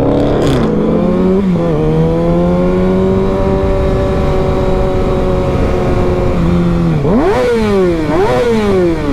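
Sport motorcycle engine heard on the rider: slowing at first, then holding a steady cruise. From about seven seconds in it accelerates hard, its pitch climbing and dropping back at two quick upshifts, with wind noise rising.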